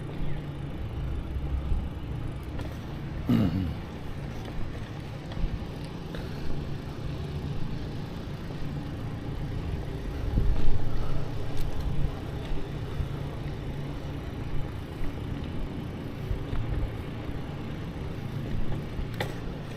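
Wind rumble and ride noise picked up by the microphone on a moving bicycle, with small knocks and rattles. There is a short falling tone about three seconds in and a louder swell about ten seconds in.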